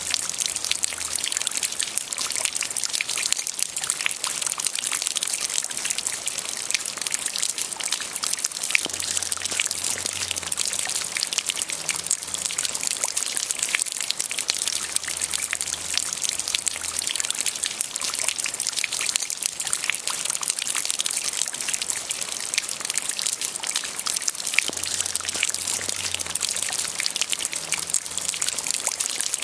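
Light rain falling steadily, a dense patter of many small drop hits over an even hiss.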